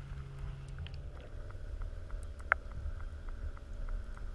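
Quiet ambience from a kayak on the water: a steady low rumble with a faint hum, light scattered ticks, and one sharper click about two and a half seconds in.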